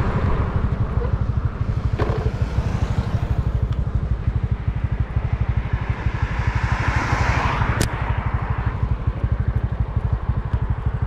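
A vehicle engine running steadily with a fast low pulsing, a swell of noise partway through, and a sharp click near the end.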